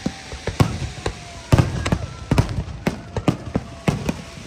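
Aerial fireworks exploding: a string of irregular sharp bangs and booms, roughly one or two a second, the loudest about a second and a half in.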